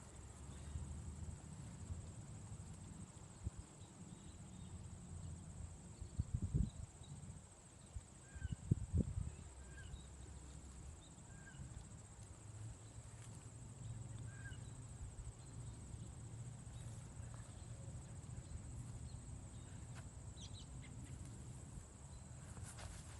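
Outdoor nature ambience: a steady high-pitched insect trill, a few faint short bird chirps and a low rumble, with a couple of louder knocks in the first half.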